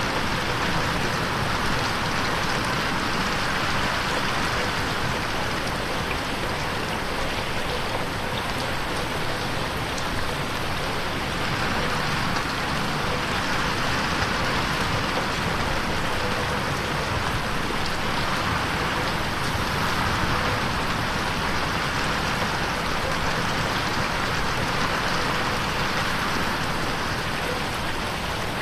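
Steady rain pattering on a window pane, a dense even hiss of drops that swells and eases slowly every few seconds.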